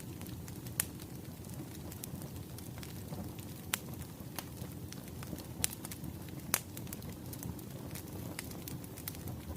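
Wood fire crackling: a steady low rumble of burning logs with sharp pops scattered through it, the loudest about one, four, five and a half and six and a half seconds in.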